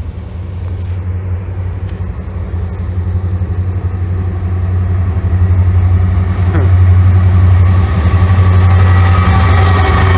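Train approaching and passing close by: a low steady drone that grows steadily louder, with high whining tones from the wheels joining near the end.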